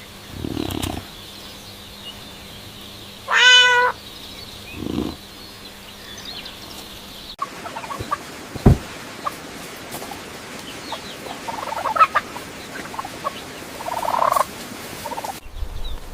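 A cat meows once, a short, high mew about three and a half seconds in. Soft thuds come before and after it. Scattered clicks and brief rustling follow in the second half.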